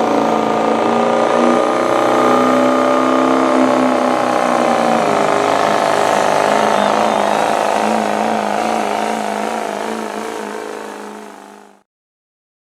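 A diesel pickup truck's engine held at high revs under load during a truck pull, its pitch steady and then wavering. It fades near the end and cuts off abruptly.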